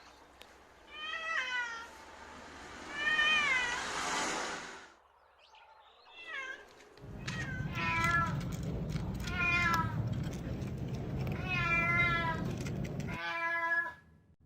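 A cat meowing repeatedly, about six or seven short meows, each rising and falling in pitch. Under the later meows there is a low steady background rumble that cuts off near the end.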